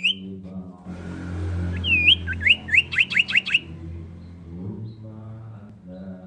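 Common iora calling: a swooping whistled note, then a quick run of about six rising whistled notes, over a low steady hum.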